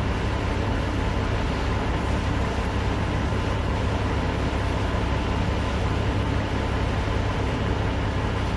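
Steady low mechanical rumble with a hiss over it, unchanging throughout.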